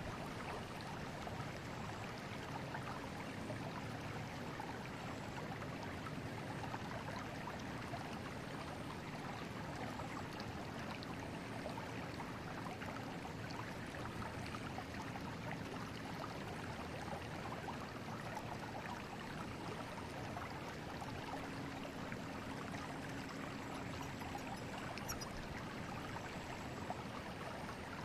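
A forest river flowing: a steady rush of running water.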